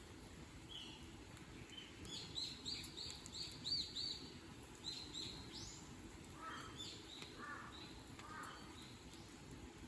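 Small birds singing: a quick run of about half a dozen repeated high chirps a couple of seconds in, then a few more, and some lower warbled notes near the end, over a steady low background noise.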